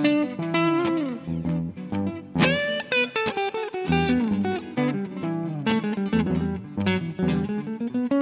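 Electric guitar playing a fast jazz-fusion single-note line over a looped E minor backing track with bass. There is a quick upward slide about two and a half seconds in.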